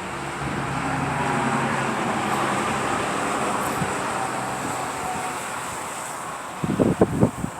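A car driving past, its engine and tyre noise swelling and then slowly fading. A few short thumps come near the end.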